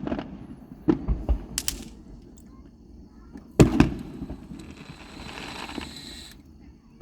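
Fireworks going off: several booms and pops in the first two seconds, then a loud bang about three and a half seconds in, followed by a couple of seconds of hissing that stops suddenly.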